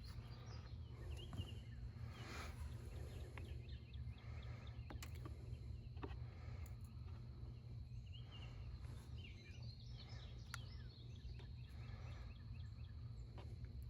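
Faint outdoor background with a steady low hum, a few distant bird chirps, and a few sharp light clicks.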